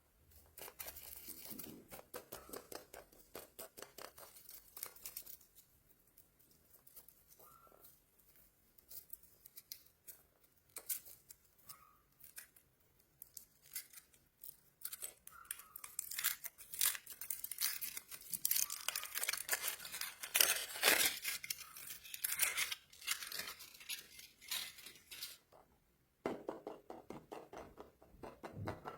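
Plastic candy wrappers crinkling and tearing open as they are unwrapped by hand. The crackles are sparse at first and thickest in the second half, then stop briefly near the end.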